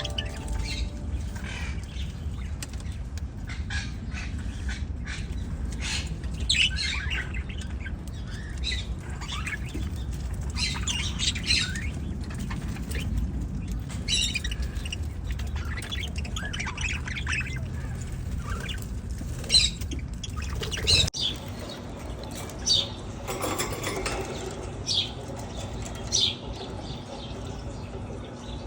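A flock of budgerigars chirping and squawking in many short, sharp calls, with a low rumble on the microphone that cuts off about two-thirds of the way through.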